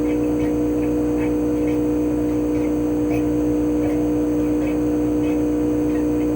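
Chofu AE-2844PX air conditioner outdoor unit running steadily in cooling mode: its inverter-driven GMCC KSK89D53UEZC single-rotary compressor gives a steady hum with two held tones, along with the propeller fan. Faint light ticks recur about twice a second.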